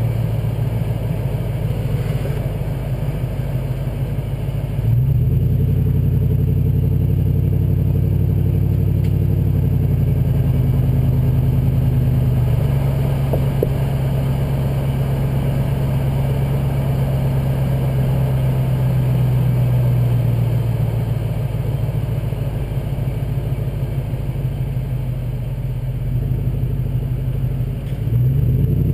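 Exhaust note of a 2005 Jeep Grand Cherokee's 5.7L Hemi V8 through an aftermarket Borla exhaust, running under throttle. The note steps up in pitch and loudness about five seconds in, eases down through the second half, and climbs again near the end.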